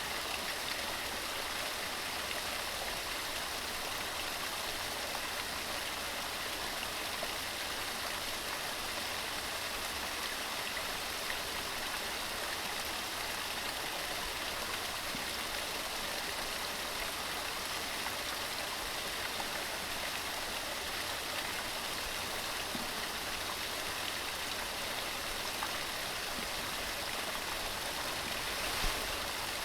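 Waterfall with water cascading over rocks, giving a steady, unbroken rushing hiss.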